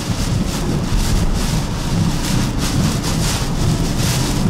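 Heavy rain and road spray hitting a moving vehicle at highway speed, over a steady low rumble of tyres and wind on a flooded road.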